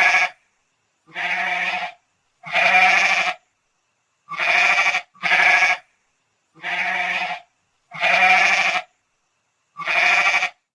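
Domestic goat bleating, a series of about eight separate bleats.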